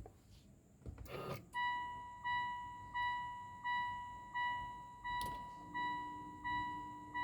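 Mitsubishi Pajero Sport dashboard warning chime dinging repeatedly with the ignition switched on, an even ding about every 0.7 seconds, starting after a brief rustle about a second in.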